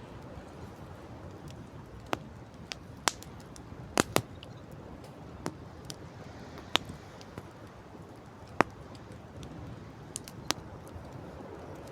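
Campfire crackling: about ten sharp wood pops at irregular intervals over a steady rushing background.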